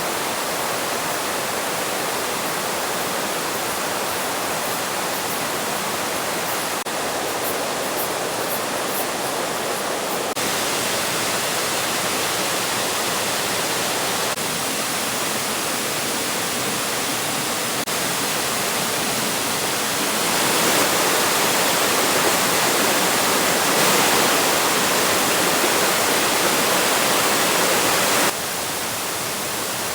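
Waterfall rushing: a steady, even roar of falling water, stepping abruptly louder or softer several times, loudest for a stretch in the last third before dropping back near the end.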